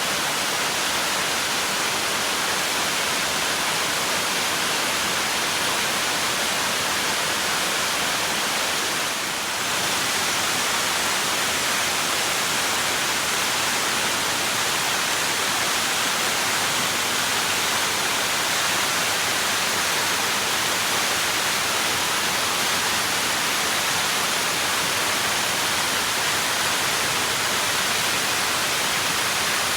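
Waterfall rushing, a steady roar of falling water with a brief slight dip about nine seconds in.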